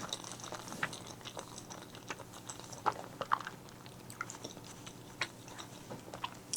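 Close-miked chewing and eating mouth sounds: irregular soft wet clicks and smacks, a little louder around the middle.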